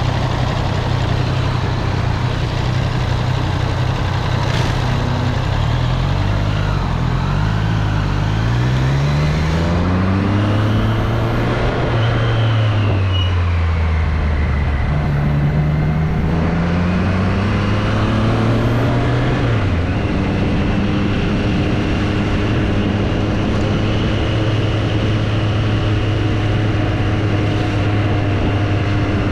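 Triumph Street Triple motorcycle's three-cylinder engine, heard from the rider's seat: a steady low note at first, then revs climbing as it pulls away, a drop at a gear change, a second climb, another sudden drop, and a steady cruising note, over road and wind noise.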